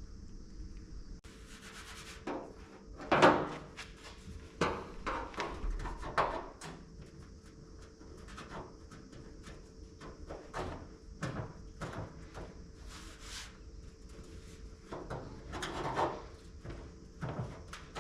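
Short, irregular scraping and rubbing strokes of hand work on a car body panel, the loudest about three seconds in, over a faint steady hum.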